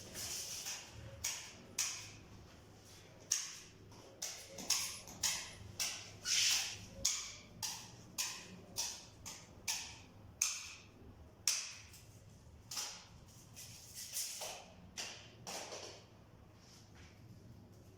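Irregular sharp taps and knocks on wood, roughly one or two a second, as in work on a wooden bird cage.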